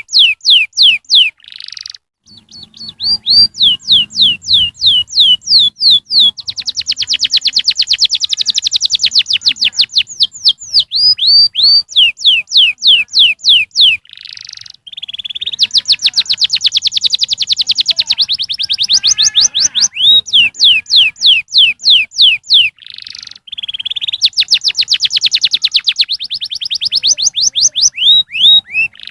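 Domestic canary singing: runs of repeated falling whistled notes, several a second, alternating with dense rapid trills, in phrases separated by short breaks.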